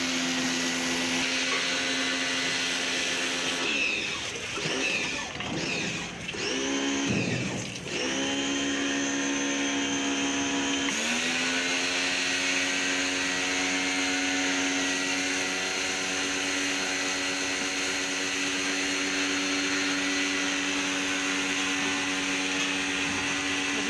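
Electric motor running with a steady whine. Between about four and eleven seconds in, its pitch wavers, drops and climbs back up twice, as if briefly loaded, then it holds steady again.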